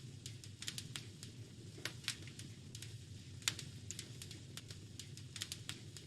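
Wood fire crackling, with irregular sharp pops, two of them louder about two and three and a half seconds in, over a low steady rumble.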